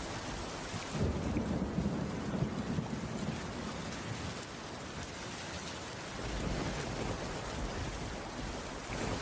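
Steady rainfall, with a low rumble of thunder that sets in about a second in and rolls on for a few seconds before easing off.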